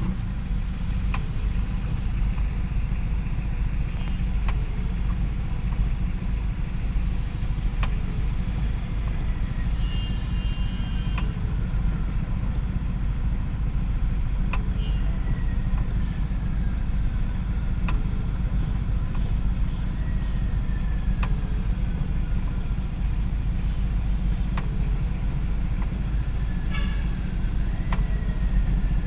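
Steady low rumble of a vehicle on the move, with a few faint falling whistles over it.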